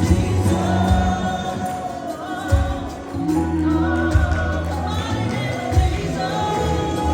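Live gospel worship music: voices singing over a band with bass and drums.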